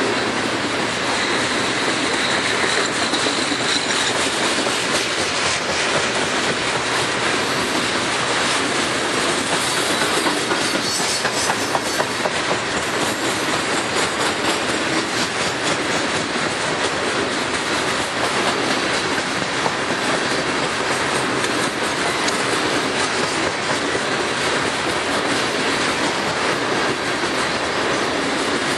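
Coal hopper cars rolling past on the rails: a steady rumble and rattle of steel wheels with rapid clicks over the rail joints. A faint high wheel squeal rides on top about a second in, for a few seconds.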